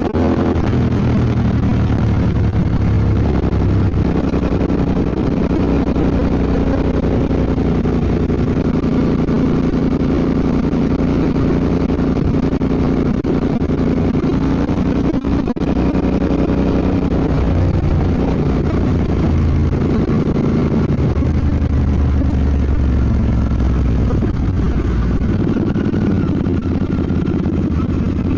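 Royal Enfield Bear 650's parallel-twin engine running steadily while riding, heard from on board the bike. The note holds fairly even, with small rises and falls in pitch as the throttle changes.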